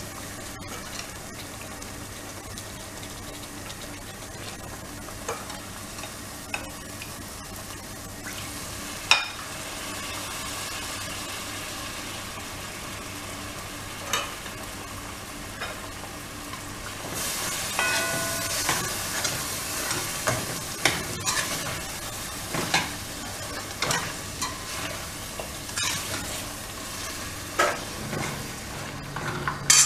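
Mutton pieces frying in a thick spice masala in a metal pan, with a steady sizzle. A metal spoon stirs and scrapes the pan, making sharp metal-on-metal knocks now and then, and far more often from about halfway on.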